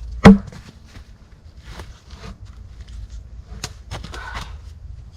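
Wood being handled: one sharp, loud wooden knock just after the start, then a few lighter knocks and rustling of sticks.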